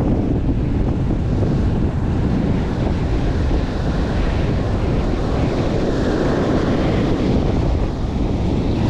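Strong wind buffeting the microphone, a steady low rumble, with surf breaking behind it.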